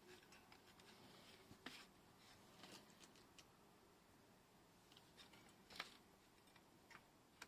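Near silence, with a few faint light clicks and rustles of small snap fastener parts being handled and fitted.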